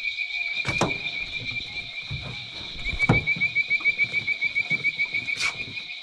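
Swamp night chorus of calling frogs and insects: a steady, high-pitched trilling that throbs rapidly in the middle stretch. Three sharp knocks come through it, about a second in, near the middle and near the end.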